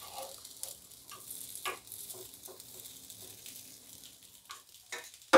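Appe batter balls sizzling gently in oil in the cups of an appe pan, with light scattered clicks and taps as a spoon turns them over. A sharp knock comes right at the end.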